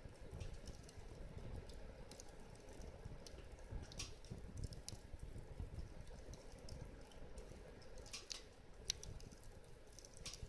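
Wood fire crackling in a fire pit, with irregular sharp pops and clicks, the loudest a little before 9 seconds in, over a low rumble of the burning fire.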